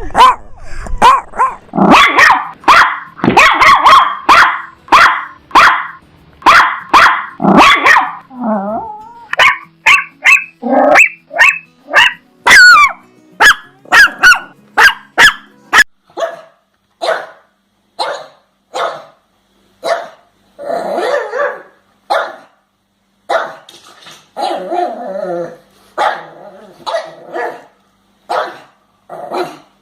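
Dogs barking repeatedly: a dense run of quick sharp barks with a wavering whine and a high rising yelp among them, then after about sixteen seconds sparser single barks with short pauses between.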